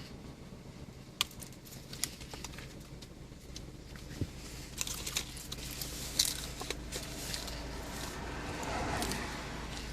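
Faint scattered clicks and crinkles of a small dog, a Yorkshire terrier, being given and taking a treat, over a low steady hum.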